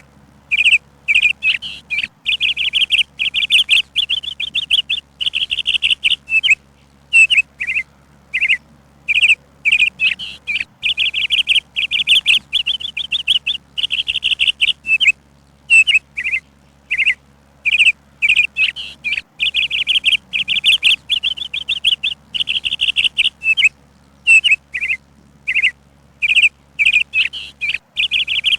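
Songbird chirping: short separate chirps broken up by rapid chattering trills of a couple of seconds, recurring every several seconds.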